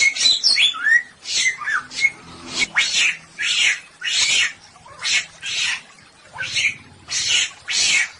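Samyong bird calling: a quick tangle of whistled, gliding notes, then a run of harsh, rasping calls repeated about twice a second.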